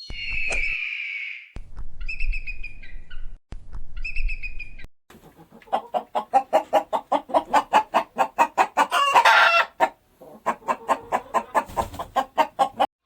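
Chicken calls: three separate higher calls, then a hen clucking in a fast run of about five clucks a second, with a short break about ten seconds in.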